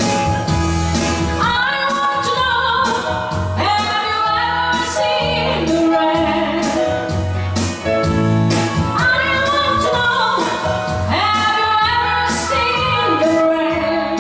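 A woman singing a pop song in English over band accompaniment with a steady beat.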